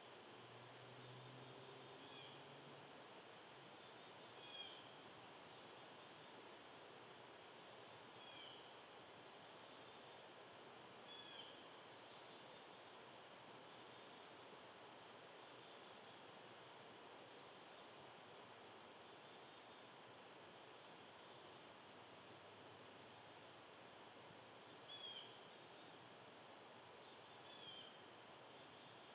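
Faint wild bird calls: short single chip notes, repeated every couple of seconds, with a few higher, thinner notes in the middle, over a steady outdoor hiss.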